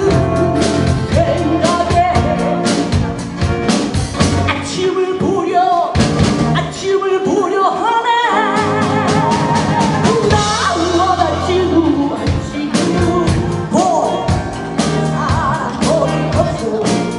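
A live band playing a bluesy rock song, with a singer over the band and a drum kit keeping a steady beat.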